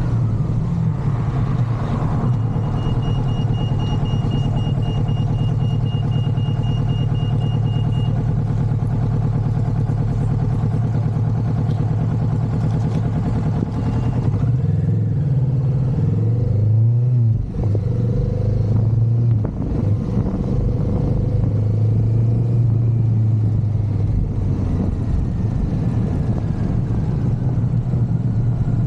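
Motorcycle engine running under way, with a steady low drone and rushing noise. About halfway through, the pitch wavers and glides, and two brief drops in loudness follow, like throttle changes or gear shifts.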